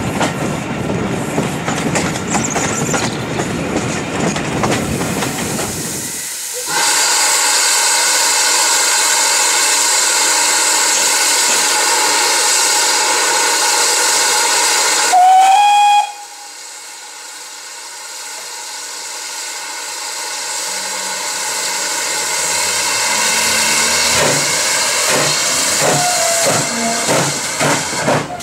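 Steam locomotive: train running noise, then a loud steady hiss of escaping steam starts abruptly. About halfway through comes a short whistle blast that rises slightly in pitch. The hiss then cuts off sharply, and a quieter hiss builds up gradually.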